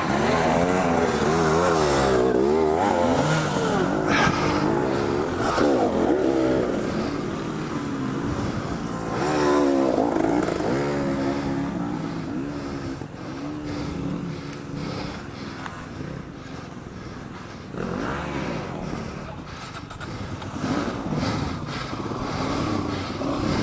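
Dual-sport motorcycle engine revving up and down under changing throttle. It is loudest and busiest in the first few seconds and again about ten seconds in, then runs lower and quieter, with another swell near the end.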